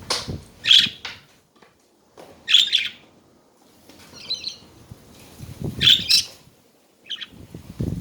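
Pet budgerigars chattering in five short, loud bursts of high chirps a second or two apart. Dull low thumps come at the start, about six seconds in and at the end.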